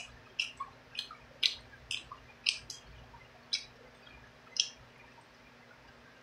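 Close-miked mouth sounds of eating a chicken wing: a run of short, wet lip smacks and chewing clicks, about ten of them, which stop about two-thirds of the way through.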